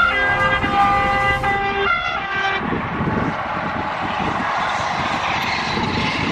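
Train horn sounding several notes at once for about two and a half seconds, then the steady rushing noise of a high-speed train running.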